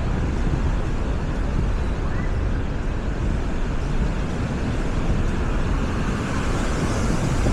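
Steady seaside ambience: wind rumbling on the microphone over the wash of waves on the shore.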